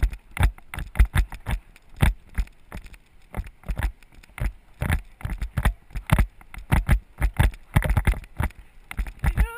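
Bicycle rattling and clattering on a fast downhill over rough ground: an irregular string of sharp knocks and clicks, several a second.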